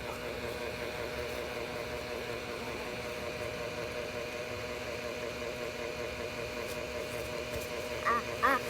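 Steady mechanical hum of a small motor or fan, with a constant tone running through it. Near the end come two short, high-pitched vocal calls.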